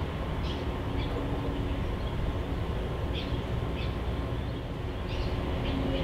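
About six short, high bird chirps scattered through, over a steady low background rumble.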